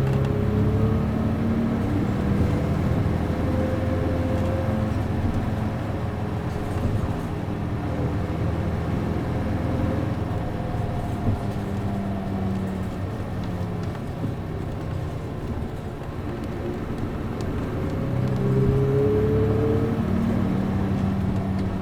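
Route bus's MD92TJ diesel engine running under way, heard from inside the bus: the engine note rises at first, eases off through the middle, then climbs again as the bus pulls away near the end, over a steady rumble of road noise.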